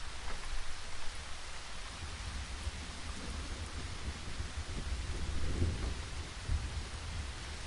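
Steady rain falling, with a low rumble of distant thunder underneath that swells about halfway through.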